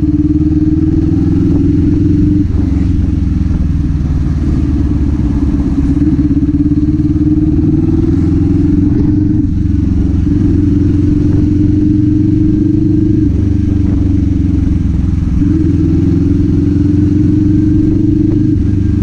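Kawasaki Z400's parallel-twin engine and exhaust running at steady riding revs, its note stepping slightly up or down a few times as the throttle changes.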